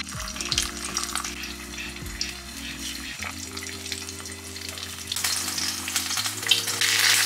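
An egg and a breaded cutlet frying in hot oil in a frying pan: steady sizzling and crackling, louder in the second half.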